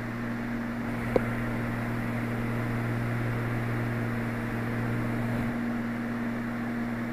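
Steady drone of a twin-engine Cessna's piston engines and propellers in the cabin, heard through the pilot's headset microphone, with one sharp click about a second in.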